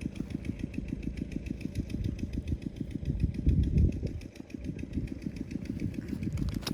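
A small engine running steadily, with a rapid, even low pulsing.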